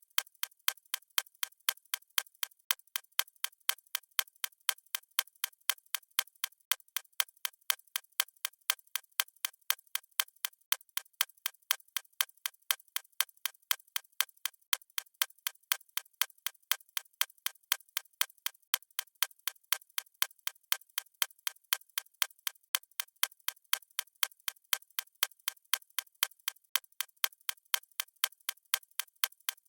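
Clock ticking: a steady, even run of sharp, light ticks, several a second, with no low thump under them.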